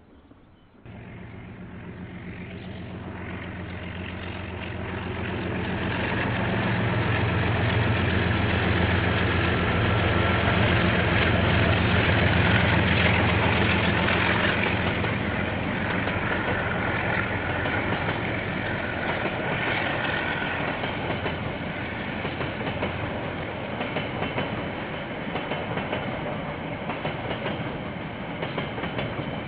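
KiwiRail diesel-electric freight train passing. The locomotive's engine hum swells to its loudest about ten seconds in, then gives way to the steadier rumble of the wagons rolling by.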